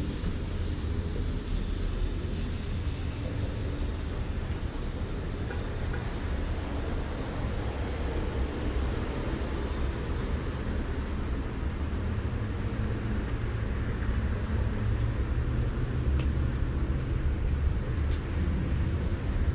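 Steady outdoor street ambience: a low, fluctuating rumble with a hiss over it and no distinct events.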